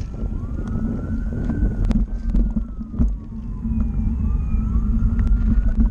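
Wind rumbling on the microphone and road noise from riding, with a few sharp knocks and a fainter tone that rises and falls slowly, twice.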